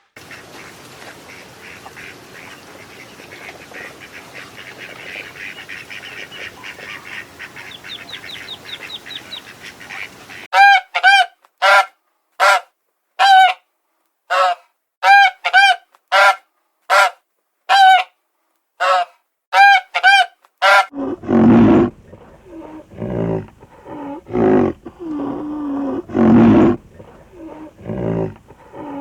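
Waterfowl honking: a run of about fourteen loud, evenly spaced honks lasting some ten seconds, after a faint steady background. Deeper animal calls follow them, repeated for the last eight seconds.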